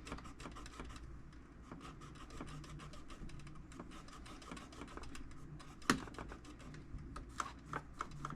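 Microfiber cloth wiping and rubbing over a metal tool box, with many small irregular clicks and taps and one sharper knock about six seconds in.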